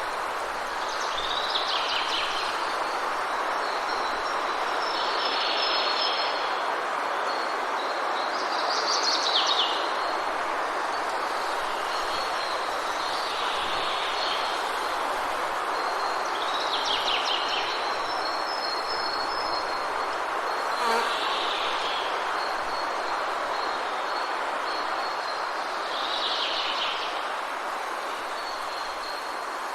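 Forest ambience: a steady rushing of rain, with a bird giving a short call about every four seconds over a thin high insect-like tone. A single click about two-thirds of the way through.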